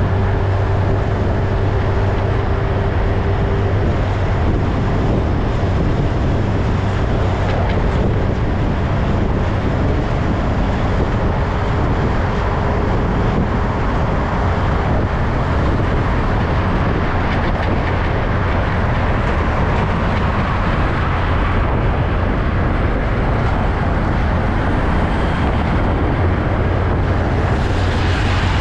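Heavy truck engine running steadily, a continuous low hum.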